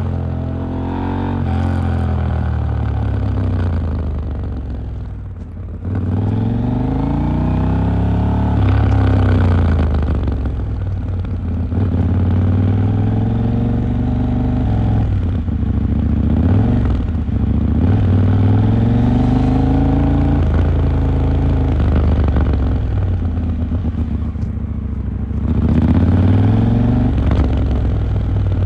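KTM 890 Duke R's parallel-twin engine pulling through the revs on a city ride. Its pitch climbs and drops back again and again as it accelerates and changes gear, with a brief fall-off around five seconds in before it picks up sharply.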